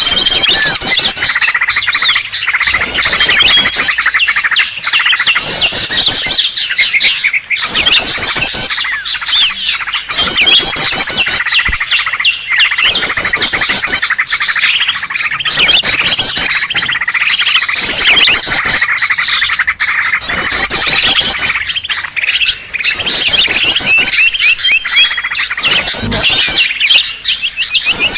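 Noisy, agitated calls of greater green leafbirds (cucak ijo), a lure sound for drawing in wild birds: loud, rapid chattering phrases repeating every one to two seconds, with thin high whistles, overlapping without a break.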